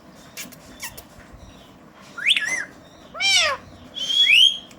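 Indian ringneck parrot giving three short, high-pitched whistled calls in quick succession. They are cat-meow imitations: the middle call rises and falls like a meow, and the last one slides upward.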